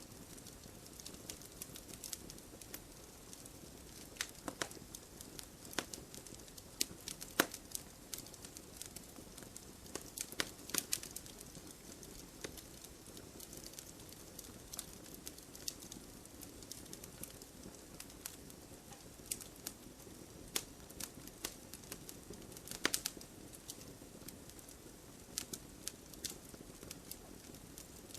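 Campfire burning: irregular sharp crackles and pops from the burning wood over a steady low hiss of the flames, with a few louder snaps.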